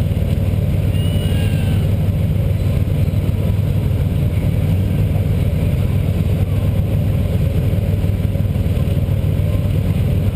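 2000 Buick LeSabre's 3.8-litre V6 running steadily, heard from inside the car's cabin.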